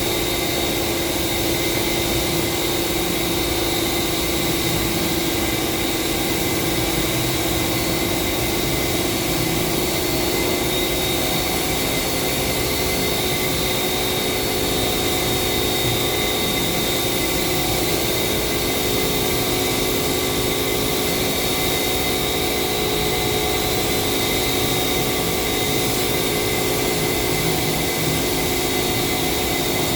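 Compressed-air spray-painting equipment running continuously: a steady hiss with a constant hum and whine that never changes pitch or stops.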